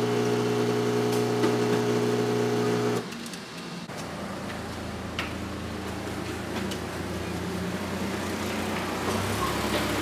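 Steady engine hum of a vehicle, cut off abruptly about three seconds in and replaced by a different, quieter engine hum whose pitch climbs slowly.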